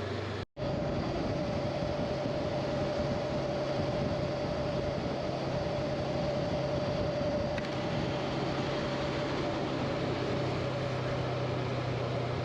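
Honda motorcycle running steadily at cruising speed, with a held engine tone and a low hum under wind and road noise. The sound cuts out briefly about half a second in, then resumes unchanged.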